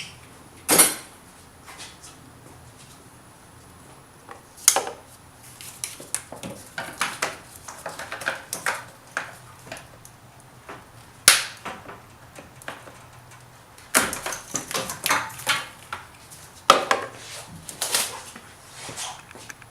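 Irregular clicks, snaps and rattles of hand work on a car's wiring harness and plastic connector clips, with tools and parts knocking now and then. The sharpest snaps come about a second in, about eleven seconds in and near fourteen and seventeen seconds.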